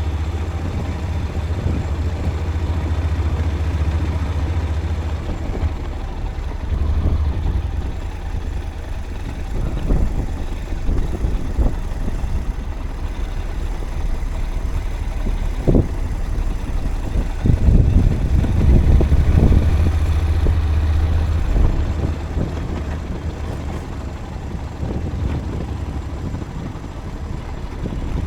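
Vehicle driving on a forest road: steady low engine and road rumble, with a few sharp knocks about 10, 16 and 17 seconds in.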